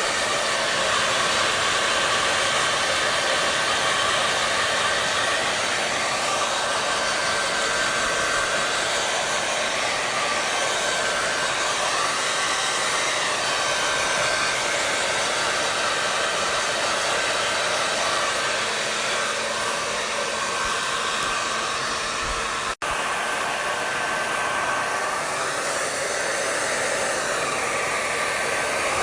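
Hair dryer running steadily with a continuous blowing rush and a faint steady whine. The sound cuts out for an instant about three-quarters of the way through.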